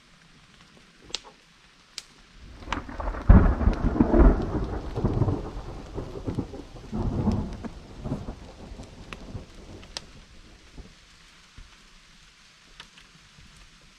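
Thunder rolling over steady rain: a loud peal breaks about three seconds in, rumbles with a second swell, and fades away over several seconds. Scattered drops tick sharply throughout.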